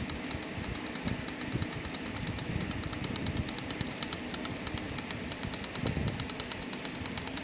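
A boat engine running steadily, with a fast, even ticking beat over a constant rumble.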